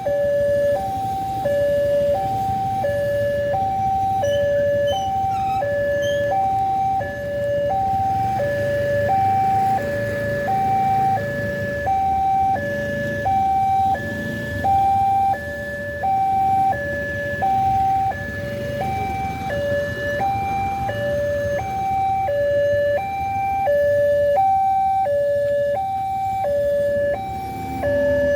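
Railway level-crossing warning alarm sounding. It repeats an electronic two-tone pattern, high then low, about one pair a second, which signals that the barriers are closed and a train is approaching.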